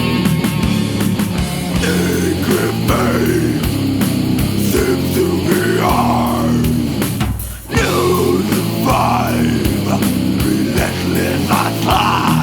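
Instrumental death metal from a 1995 cassette: distorted guitars, bass and drums playing together, with gliding, bending lead notes over a low riff. The band stops briefly about seven and a half seconds in, then comes back in.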